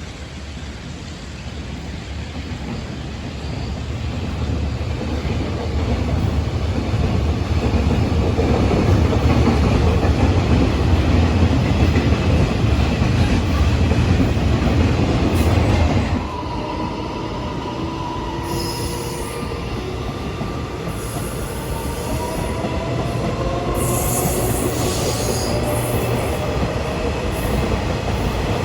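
A train running on the rails, with a heavy rumble that builds for the first half and then drops off suddenly. After that, several whining tones rise steadily in pitch.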